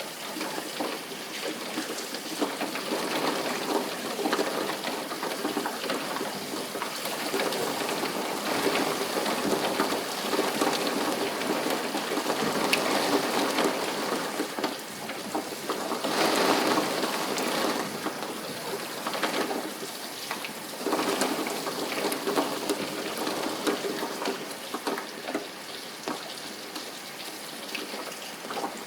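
Rain falling steadily, with many small drop ticks, swelling louder for a moment about halfway through.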